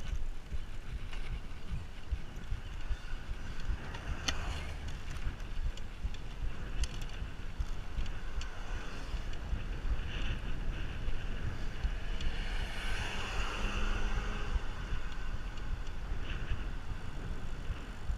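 Wind rumbling on the microphone of a moving bicycle, a steady low rumble with a short click about four seconds in and a brief swell of noise a little past the middle.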